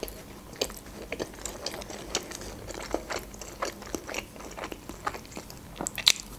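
Close-miked chewing with a full mouth: a run of small wet clicks and crunches. Near the end comes a louder bite into a slice of black bread.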